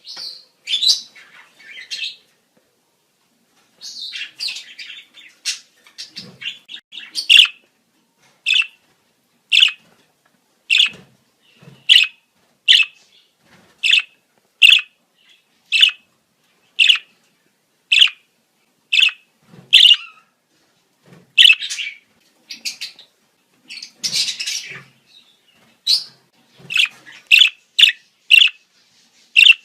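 Budgerigars giving breeding-season chirps: short, sharp calls about one a second, with a brief burst of denser chatter later on.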